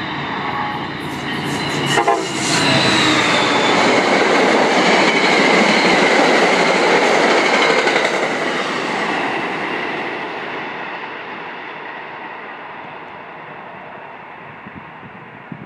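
MBTA commuter rail train, a locomotive hauling bilevel coaches, passing close at speed: it builds up, the locomotive goes by with sharp wheel clicks about two seconds in, the coaches rush past loudly for several seconds, and the sound then fades steadily as the train recedes.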